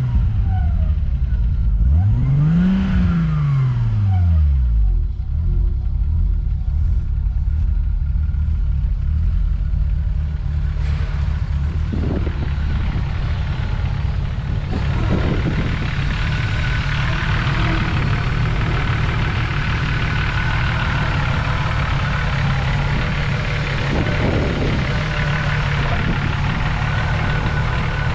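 Turbocharged 2.5-litre RB25DET inline-six of a 1994 Nissan Skyline GTS25-T. It is revved once near the start, the pitch rising and falling back over about three seconds, then settles to a steady idle. A steady hiss grows louder about halfway through.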